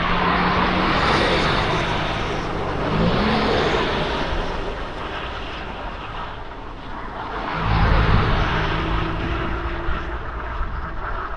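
Motor traffic passing on the road: a vehicle goes by in the first few seconds, with its engine note rising about three seconds in, and another goes by about eight seconds in, each a swell of engine hum and road noise.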